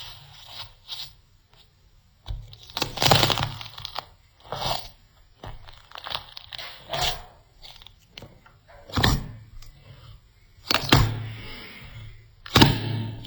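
Slime being squeezed and poked by hand, making irregular crackling and popping sounds, with louder bursts every couple of seconds.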